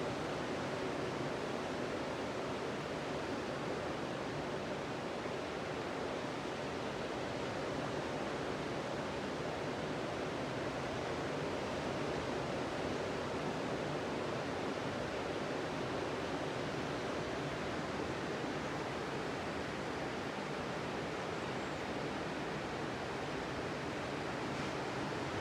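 Ocean surf washing steadily onto a beach, a continuous even rush of waves with no single break standing out.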